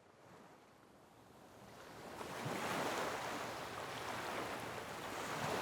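A steady rushing noise, like wind or surf, fading in from silence. It grows louder over the first two or three seconds and then holds.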